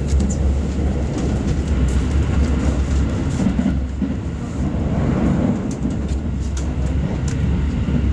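Rapid commuter electric train running at speed, heard from inside the carriage: a steady, dense low rumble with scattered sharp clicks.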